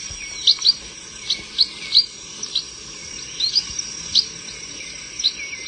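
Chestnut munias calling: short, thin, high-pitched notes at irregular intervals, about two a second. A steady high tone runs behind them.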